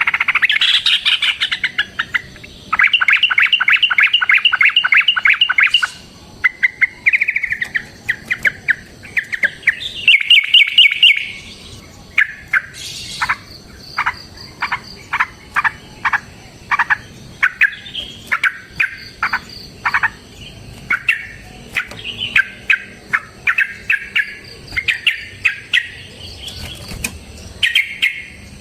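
Yellow-vented bulbul (trucukan) singing loudly. Its long, fast trills of repeated notes fill the first half; after that comes a run of sharp single notes sweeping downward, several a second. This is the combative 'ropel' song that bird keepers use as a lure to make other bulbuls answer.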